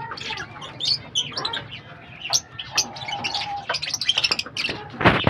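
Pet lovebirds chirping and chattering in many quick, high calls, with one longer held note about three seconds in. A brief loud rustle or thump comes just before the end.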